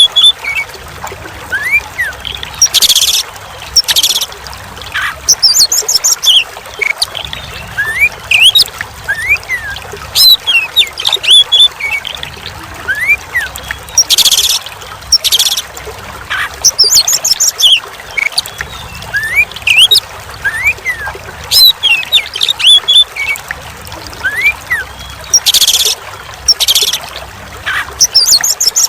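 Oriental magpie-robin (kacer) singing varied whistled notes and harsh calls, a looped recording that repeats about every 11 seconds, over the steady sound of trickling water.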